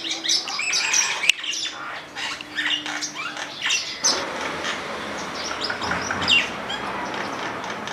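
Several garden birds chirping and calling over one another in a dense run of short, high chirps, with a few harsher squawks.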